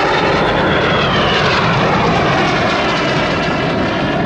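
Jet engine roar from the Red Arrows' BAE Hawk T1 jets flying past, steady and loud, with a whine that falls in pitch.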